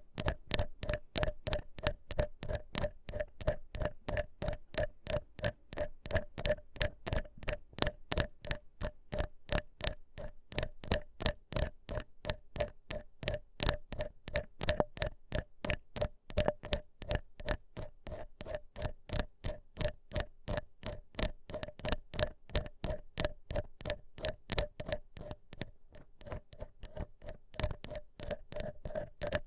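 Ear pick scratching in close-up, ASMR ear-cleaning style: crisp, rapid scrapes at about four a second, with no pause.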